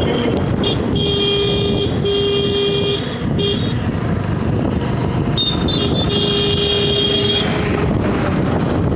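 A vehicle horn honking in a series of blasts: two long honks about a second in, a short toot, then a longer honk near the end. Underneath are steady wind and road noise from moving vehicles.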